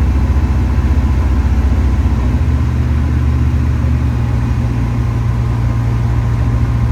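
Light aircraft's piston engine and propeller droning steadily, heard from the cockpit on the landing approach; the lowest part of the note shifts slightly about two and a half seconds in.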